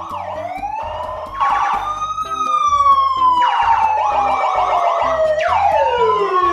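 Wailing siren, its pitch slowly rising and falling in long overlapping sweeps, growing louder about a second and a half in, over background music with a steady beat.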